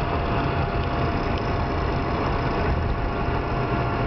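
Steady engine and road noise from inside a moving vehicle: a low rumble under an even hiss, with a faint constant whine.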